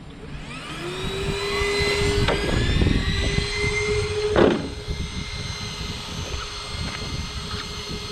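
Electric whine from a large RC truck's drive spinning up, rising in pitch over the first second and then holding steady. There is a sharp knock about four and a half seconds in, after which the steady whine carries on more quietly.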